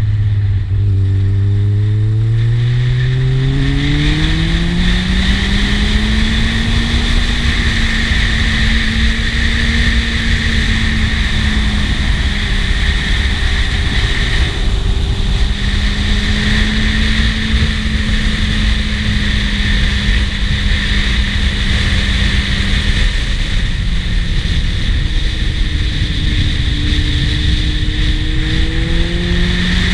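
Kawasaki Z750 S inline-four engine under way: its note falls as the bike slows at the start, rises steadily over the first several seconds as it accelerates out of the bend, holds a fairly even note through the middle, and dips then rises again near the end. Constant wind rush on the helmet-mounted microphone runs underneath.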